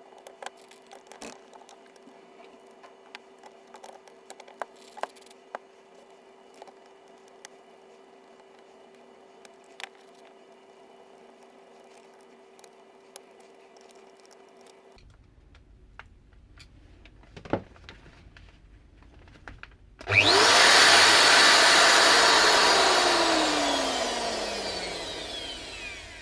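Bosch GWS 11-125 angle grinder's electric motor switched on about two-thirds in, loud as it whines up to speed, then coasting down with a falling whine that fades over several seconds; before it, small clicks of the opened-up parts being handled. The motor spins freely without driving the spindle, a fault the owner puts down to a missing nut on the gear drive.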